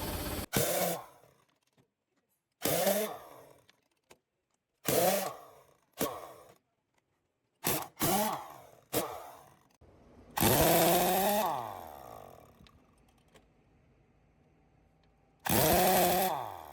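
A handheld power tool run in about nine short bursts, the longest about ten seconds in. Its pitch falls as each burst runs down.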